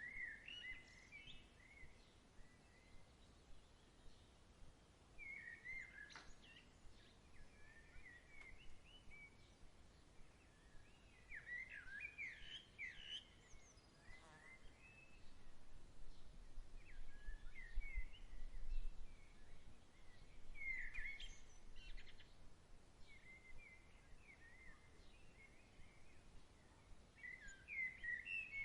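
Birds chirping and singing in short, quick phrases, one after another, over a faint outdoor hush. A soft low rumble comes in for a few seconds around the middle.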